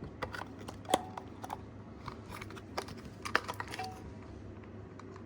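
Batteries being handled and fitted into the plastic battery compartment of a toy desk vacuum: scattered light plastic clicks and taps, with a sharper click about a second in and a quick cluster of clicks a little after three seconds.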